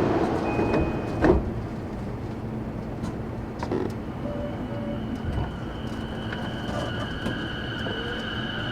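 Interior sound of a JR East E233-8000 series electric train: the running noise drops away in the first second, then there is a sharp knock and a steady hum with high electrical tones. Near the end a rising whine begins, typical of the VVVF inverter as the train starts to pull away.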